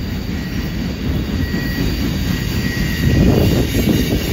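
Freight cars of a passing train rolling by close to the track: a steady rumble of steel wheels on the rails, swelling a little about three seconds in as the boxcars give way to tank cars.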